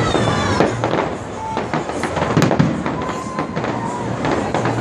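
Aerial fireworks going off: a rapid, overlapping string of sharp bangs and crackles.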